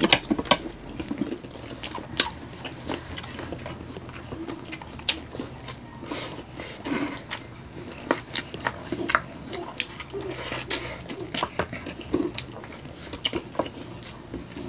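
Chicken feet adobo being eaten by hand: chewing and gnawing with wet mouth clicks and smacks, irregular and several a second.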